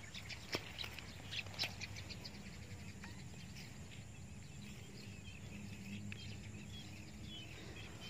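Faint, short bird chirps over low outdoor background noise in a field, with a few sharp clicks in the first couple of seconds.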